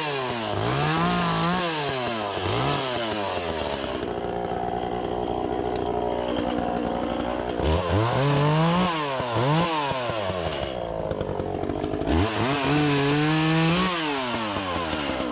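Echo CS-400 two-stroke chainsaw revving up and down again and again in quick blips, with two steadier spells between.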